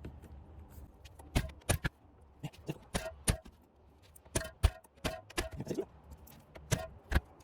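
Metal hand tools clicking and knocking against engine parts, a dozen or so irregular sharp clicks, some with a brief metallic ring.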